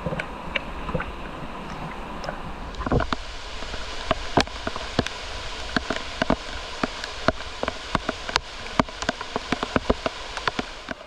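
Steady hiss of running or falling water, with many irregular sharp ticks and taps starting about three seconds in, like drops or spray striking something close by.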